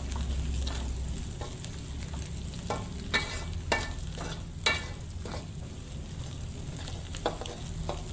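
Chili spice paste sizzling in hot oil in a wok, fried down until fully cooked. A wooden spatula stirs it, scraping and knocking against the pan several times.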